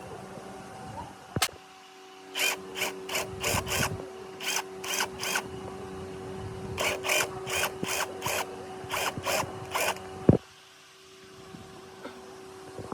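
A hand tool worked in quick short strokes, about five a second in groups of four to six, with one sharp knock near the end.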